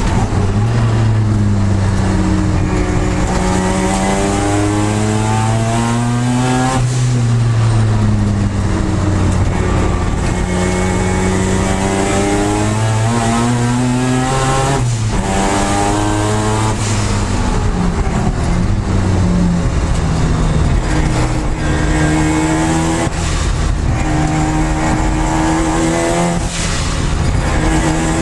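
Mazda RX-7 (FD) twin-turbo rotary engine driven hard on track, heard inside the stripped race-car cabin: its pitch climbs steadily in each gear and drops back sharply at each shift or lift, several times over, with wind and tyre noise underneath.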